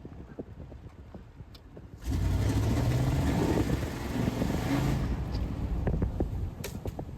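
1999 Chevy Tahoe's 5.7 Vortec V8 pulling over a rough trail, with knocks and rattles from the bumps. About two seconds in, the engine comes up under load and a loud rushing noise joins it for about three seconds, then falls back.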